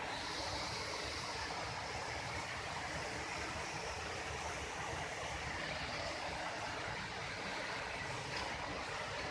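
Waterfall water rushing steadily, an even noise.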